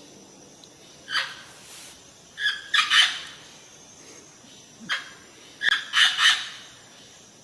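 Parrot giving short, harsh squawks, singly and in quick runs of two or three, with pauses between.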